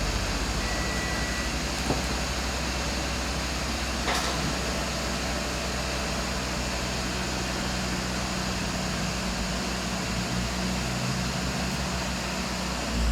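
Steady machine hum and hiss, with a short high beep about a second in and two light clicks a few seconds apart.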